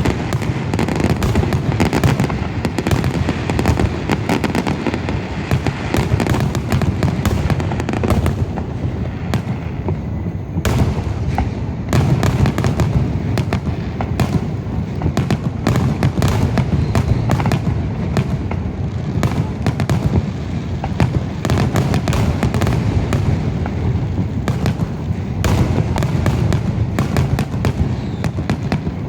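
Fireworks finale: a dense, continuous barrage of aerial shell bursts and crackling, many bangs a second with no letup.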